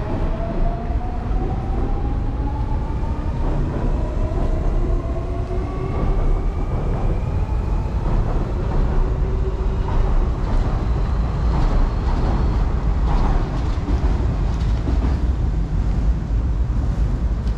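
Electric train running, heard with a heavy low rumble; its motors give a whine of several tones that climbs slowly in pitch over the first several seconds as the train accelerates, then fades into rumble and track noise.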